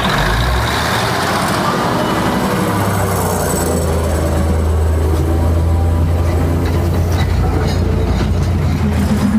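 A heavy vehicle's engine running, with a steady low drone that grows stronger about three seconds in.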